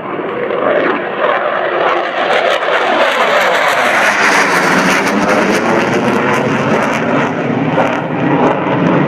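An F-16 fighter jet flying past: loud jet noise that builds to a hissing peak about four seconds in, then sweeps down in pitch and carries on as a lower rumble as it moves away.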